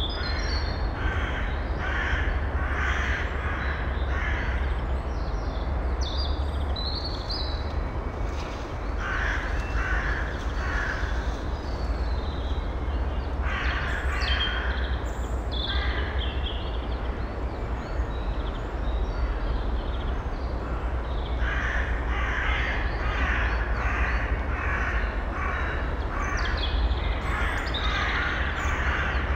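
Harsh bird calls repeated in quick series, about two to three a second, in several bouts with pauses between them, the longest bout near the end. Fainter higher chirps from small birds and a steady low background hum run under them.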